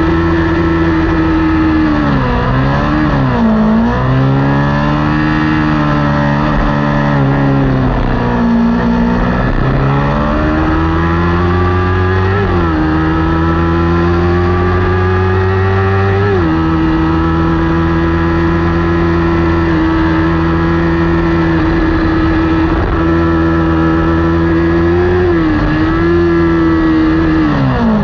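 Kawasaki Ninja 400 parallel-twin race engine at high revs, at racing pace. Its pitch drops and climbs back twice early on, steps down at two upshifts in the middle, then holds at a steady high note flat out.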